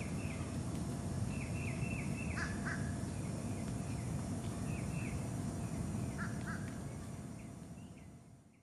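Birds calling: runs of short, quickly repeated high chirps with a few harsher calls between them, over a steady low background rumble. The sound fades out near the end.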